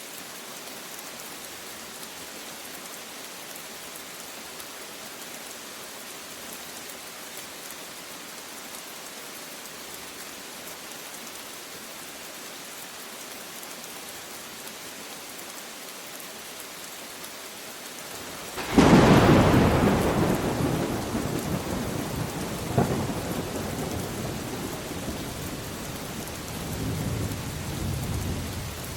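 Steady rain falling, then a sudden close thunderclap about two-thirds of the way in, followed by a second sharper crack and a long rumble that slowly fades.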